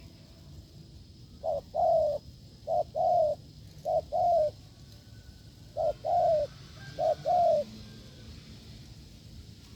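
Spotted dove cooing: five two-part coos, each a short note followed by a longer falling note, a little over a second apart with a longer gap midway.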